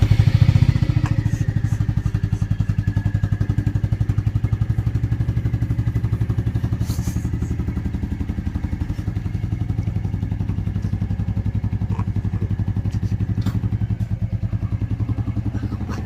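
Royal Enfield single-cylinder motorcycle engine idling with an even thumping beat. It has just been started and is a little louder in the first second before settling to a steady idle.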